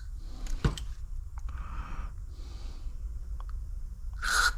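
Aerosol brake cleaner hissing in a short burst into a side port of a snowblower carburetor near the end, with fainter spray hiss midway and a sharp click about a second in.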